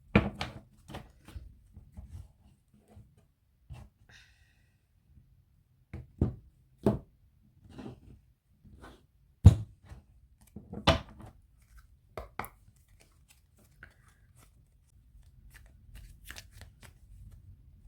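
Tarot cards being shuffled by hand: irregular flicks and slaps of cards, with a few sharper taps, the loudest about halfway through.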